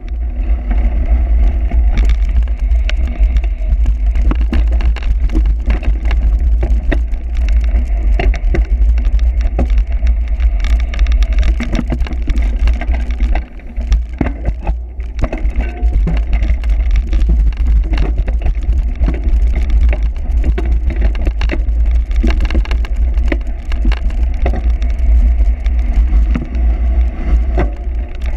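Bicycle ridden over rough cyclocross ground: steady heavy wind rumble with frequent rattles and knocks from the bike, and a brief drop in the rumble about halfway through.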